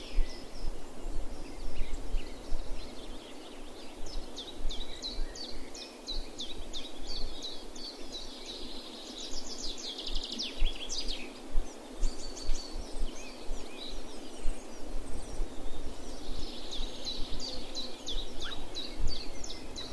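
Small birds chirping and singing in two spells of quick, high, repeated notes over a steady wind hiss.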